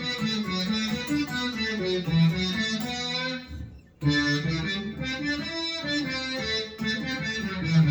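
Boss SY-200 guitar synthesizer pedal on its synth brass preset, played from an electric guitar: a brass-like synth tone playing a phrase of held and changing notes. The sound stops briefly a little before halfway, then the playing starts again.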